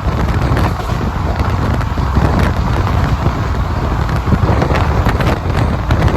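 Passenger train running at speed, heard from on board: a steady low rumble with rapid clicks and clatter of the wheels, and wind buffeting the microphone.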